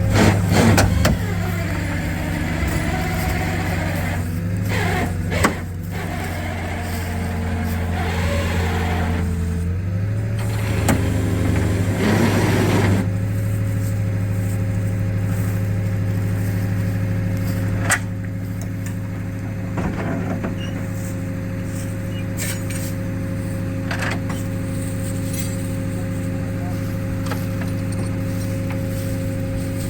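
Vehicle engine running steadily with a thin steady whine over it, working to pull a stuck vehicle out of the ground. The engine note drops and then comes back up about ten seconds in, and there are a couple of short knocks along the way.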